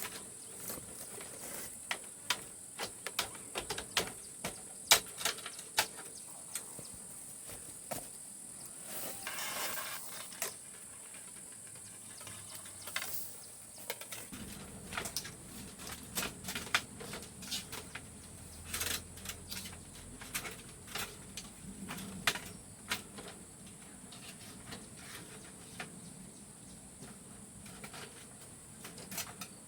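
Steady high-pitched insect drone with many irregular sharp clicks and knocks over it; a low hum joins about halfway through.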